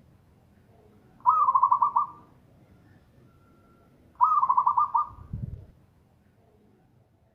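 Zebra dove (perkutut) singing its loud staccato song: two phrases of about six rapid, pulsing cooing notes, one about a second in and one about four seconds in. A brief low thud follows the second phrase.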